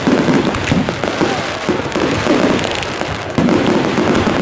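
Bonfire Night fireworks going off: a dense, rapid run of bangs and crackles, with a few louder surges.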